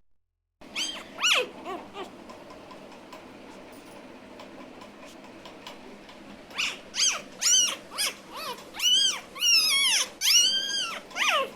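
Doberman puppy whining and yelping in short, high calls that rise and fall in pitch: a few near the start, then a quick run of them over the last five seconds.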